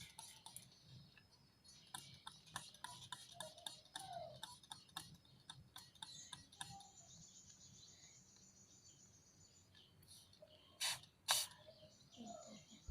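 A lovebird's faint short chirps among many small clicks and scratches, with a thin high trill for a few seconds midway and two louder rustling bursts near the end.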